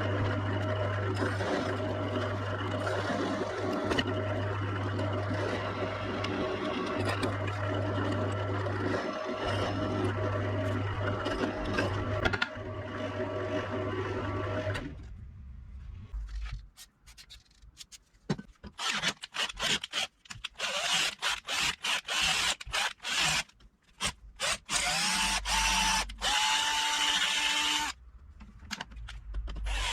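Electric drill drilling small holes in a steel plate: a steady motor hum for about fifteen seconds, then short, choppy bursts of the drill working the metal, starting and stopping.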